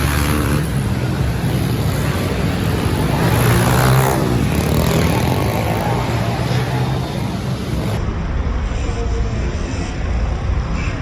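Engine noise from a motor vehicle running steadily, with the revs rising and falling about three to four seconds in.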